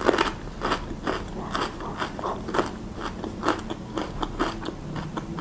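Close-miked chewing: a person eating with her mouth closed, an irregular run of short clicks and smacks, about three a second.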